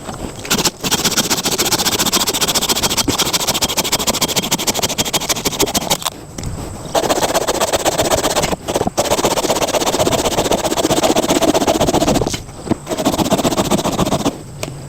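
A saw cutting through firewood, running in long stretches broken by brief pauses.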